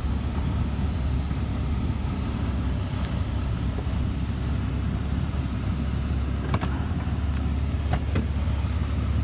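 Cummins 6.7-litre turbo-diesel straight-six of a Ram 2500, breathing through a custom exhaust with no catalytic converters, running steadily with a low rumble. A few sharp clicks come about six and a half and eight seconds in.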